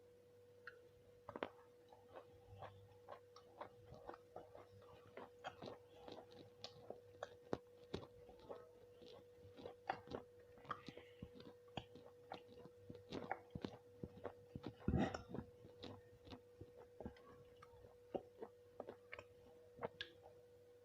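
A person chewing nasi kucing rice close to the microphone: many soft, irregular mouth clicks and smacks, with a louder cluster about fifteen seconds in, over a faint steady hum.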